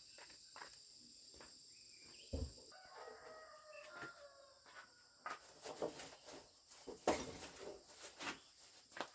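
A rooster crowing once, faintly, for about two seconds starting about three seconds in, among scattered knocks and rustling, with a single thump just before the crow.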